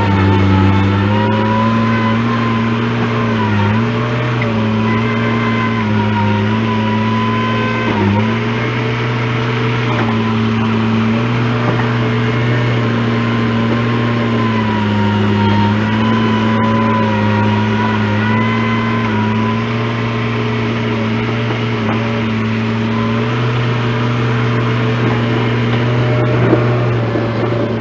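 An engine running steadily at constant speed. Its pitch dips briefly a few times, notably about 4 and 8 seconds in.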